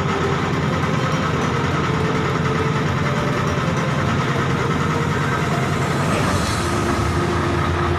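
Mercedes-Benz Actros truck's diesel engine idling steadily.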